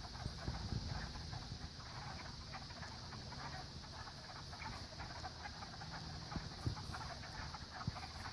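Frog chorus: many frogs calling at once, a dense crackle of short, overlapping calls.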